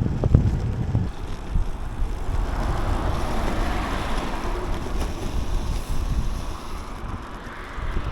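Wind buffeting the microphone of a moving bicycle. A rushing noise swells and fades between about three and six seconds in.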